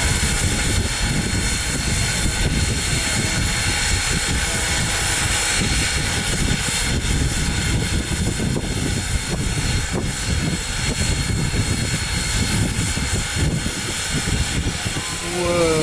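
Wind buffeting the microphone: a loud, gusting rumble over a steady hiss.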